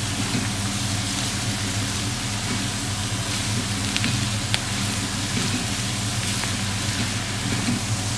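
Shredded cabbage with dried catfish frying in a large wok over a high gas flame: a steady sizzle with a low hum underneath, as a spatula stirs and tosses it, with a few light scrapes about four seconds in.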